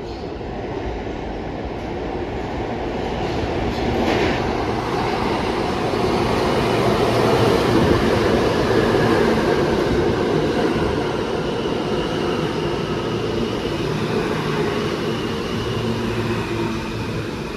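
Subway train running, its rumble building to a peak about halfway and then easing off. A faint high whine from the wheels appears near the end.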